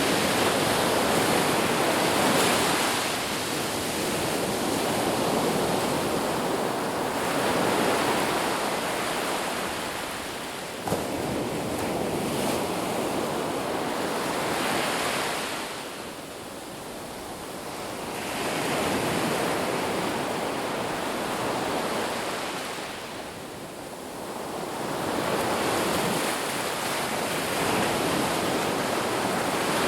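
Sea waves surging and washing back, the rush of water swelling and easing every several seconds, with a brief click about eleven seconds in.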